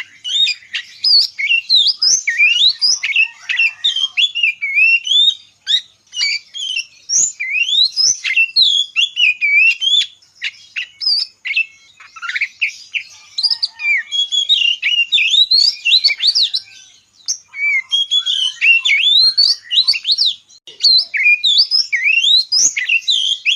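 Small birds chirping: a busy, continuous chorus of quick, overlapping high chirps and twittering whistles that sweep up and down in pitch, with a few brief lulls.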